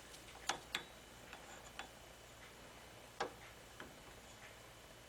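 A few sparse, irregular light clicks and taps of a micrometer being set onto a crankshaft main journal to measure it, with the loudest about half a second in, just after, and near the middle.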